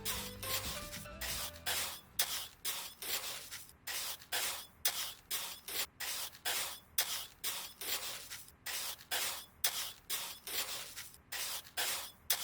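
Rhythmic rubbing or rasping strokes, about two a second, like an abrasive being worked back and forth on a small part. Background music fades out in the first second or so.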